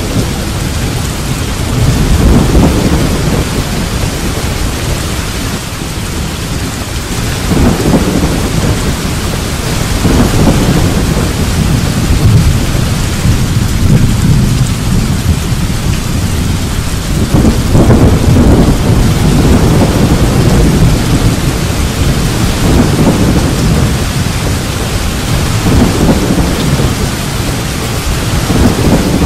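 Steady heavy rain from a thunderstorm, with thunder rumbling up and fading away several times.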